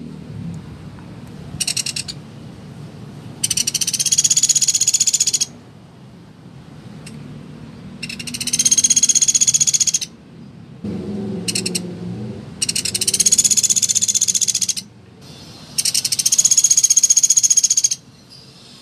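Pelatuk beras woodpecker giving rapid rattling trills: a short one, then four of about two seconds each, spaced a few seconds apart.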